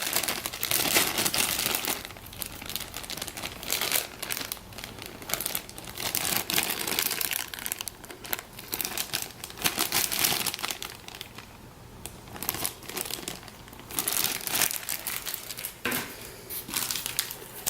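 Plastic packaging of model-kit parts crinkling as it is handled, in irregular rustles with a quieter stretch in the middle.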